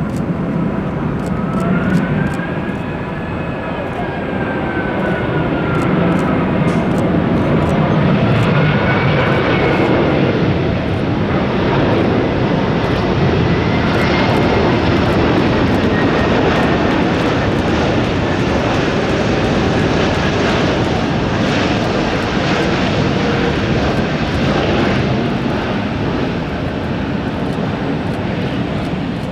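Jet airliner's engines heard as the plane passes: a loud, steady rushing noise with whining tones that bend up and down in pitch during the first half.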